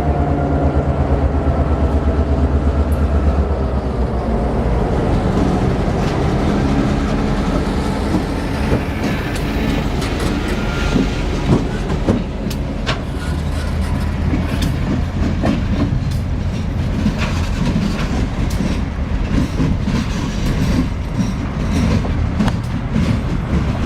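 A diesel-hauled train passing close by: the locomotive's engine drones low in the first few seconds, then the cars roll past with a string of sharp wheel clicks over the rail joints.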